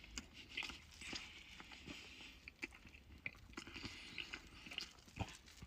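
Faint chewing of chocolate cake: a scatter of small mouth clicks and smacks.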